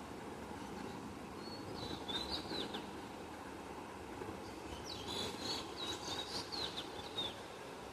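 Small birds chirping in two quick runs of short, high chirps, the second run longer, over a steady low background noise.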